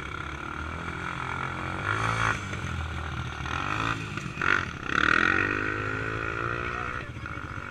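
Dirt bike engine running under way, then revving up about halfway through with a rising pitch that levels off near the end.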